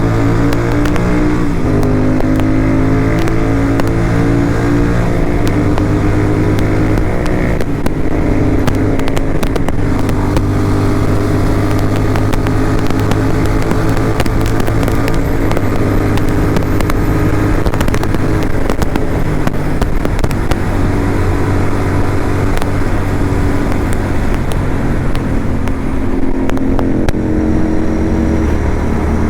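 Motorcycle engine running while riding, its pitch rising and dropping several times with throttle and gear changes, over constant wind rush.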